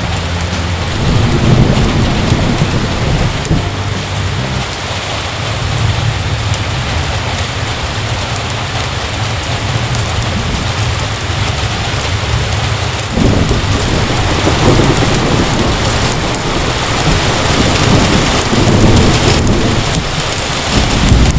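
Heavy rain falling steadily, with thunder rumbling low in the first few seconds and again in a longer roll past the middle.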